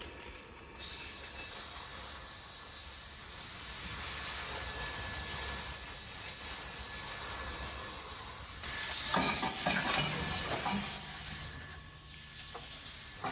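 A loud, steady hiss cuts in abruptly about a second in and runs for around ten seconds, with some clattering and knocking near its end.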